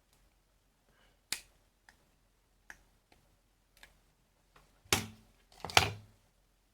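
Small sharp clicks and light knocks from handling tools and the receiver's circuit board on a workbench, with one crisp click early on and two louder knocks near the end.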